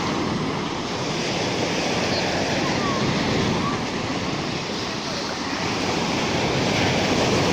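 Rough sea surf: waves breaking and rushing on the shore in a steady, dense wash that swells slightly near the end.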